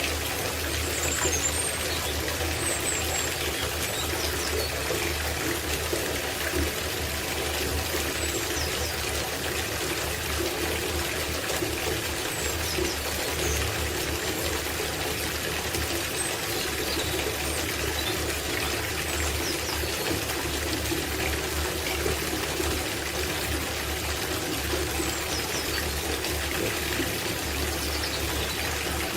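Water running from a tap and pouring into a copper bathtub as it fills, a steady splashing flow. Brief high chirps sound now and then over it.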